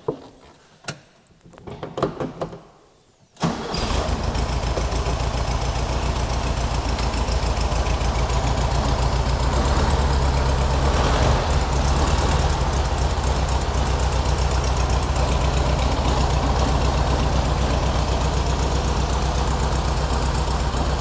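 A 1967 Volkswagen Beetle's air-cooled flat-four starting from cold after sitting unused. A few clicks and a short crank come first; the engine fires about three and a half seconds in and settles into a steady idle.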